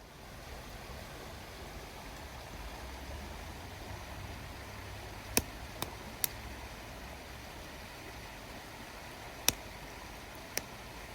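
Wood fire crackling, with several sharp pops from the burning wood, a cluster about halfway through and more near the end, over a steady rushing noise.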